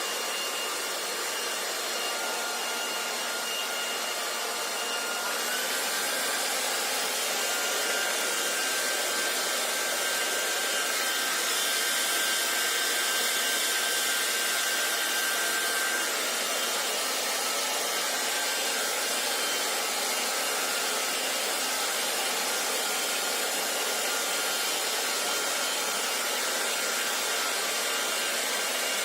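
Hair dryer blowing steadily: a rushing air noise with a faint motor whine. The whine steps up slightly in pitch about five seconds in, and fades out around sixteen seconds.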